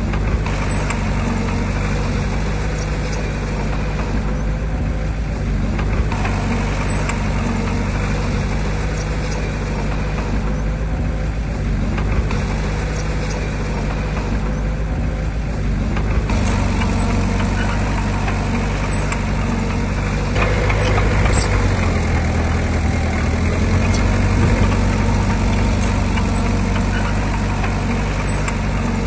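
Heavy earthmoving machinery's diesel engine running steadily, with a few faint clanks. The engine works louder and deeper for a few seconds about two-thirds of the way through.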